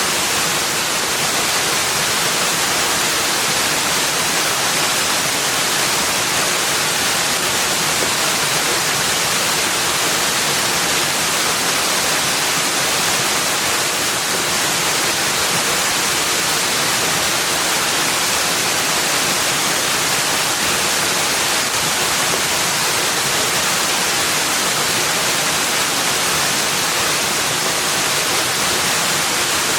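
Steady, even rushing noise with no separate events in it, much like falling water.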